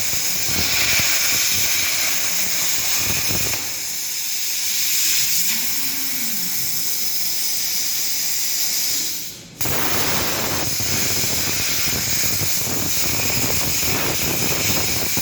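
Plasma cutting torch on a CNC cutting machine giving a loud, steady hiss as it cuts. About nine seconds in, the hiss fades out briefly and then starts again abruptly, as the arc stops and restarts.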